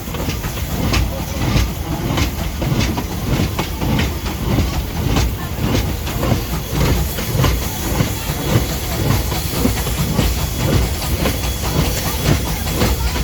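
Vintage train running on the rails: a steady low rumble with many irregular clicks and rattles from the wheels and carriages.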